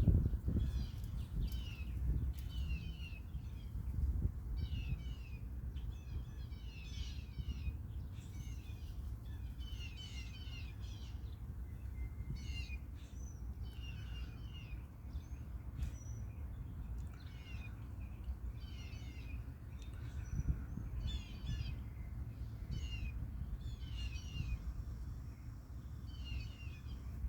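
Songbirds singing, short chattering phrases repeated every second or so, over a steady low rumble.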